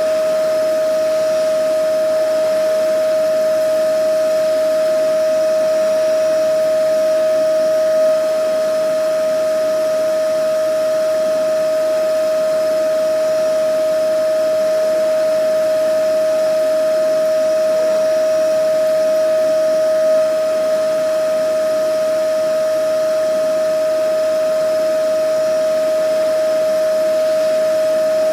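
Vacuum cleaner running steadily: a constant loud motor whine over an even rushing of air, unchanging in pitch and level.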